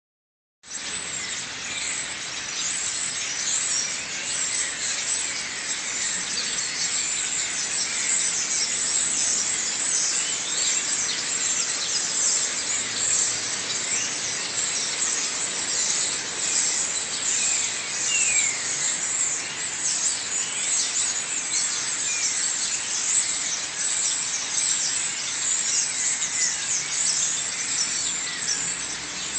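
A flock of birds chattering all at once: a dense, unbroken chorus of overlapping short high chirps and squeaks, some sliding down in pitch.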